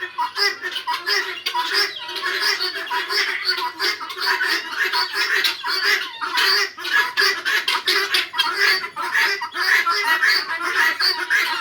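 A flock of chickens clucking and squawking: many birds calling over one another in a dense, unbroken chorus.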